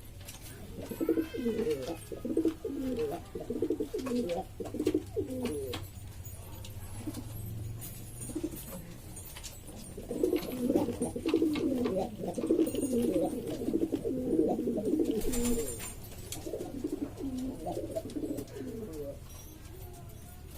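Domestic pigeons cooing, several birds calling over one another in low, throbbing phrases. The cooing comes in two long bouts with a lull between them, then a shorter bout near the end.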